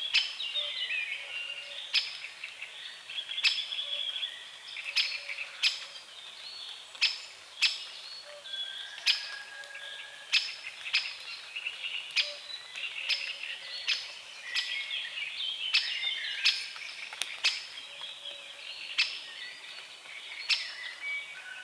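Songbirds chirping and singing in a dawn chorus, with loud sharp clicks about once a second. Faint short low calls sit underneath.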